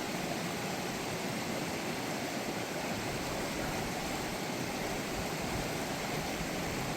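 Mountain creek water rushing steadily over its bed, an even unbroken rush.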